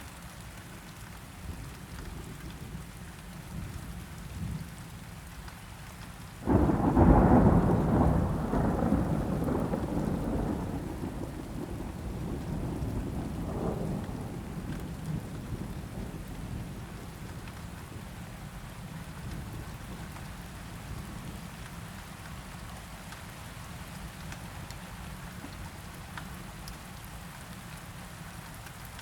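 Steady rain with a sudden thunderclap about six seconds in that rolls on and fades over several seconds, and a smaller rumble of thunder around halfway through.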